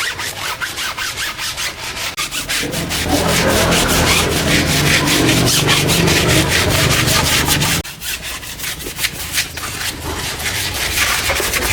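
Fast rhythmic scrubbing strokes, about four or five a second. A low hum joins them about two and a half seconds in and cuts off near eight seconds.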